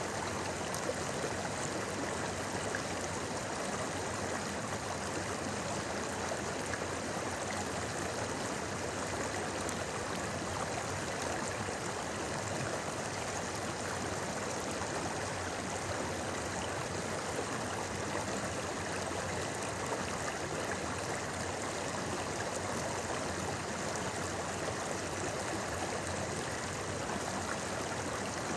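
River water flowing over rocks: a steady, even babbling with no breaks.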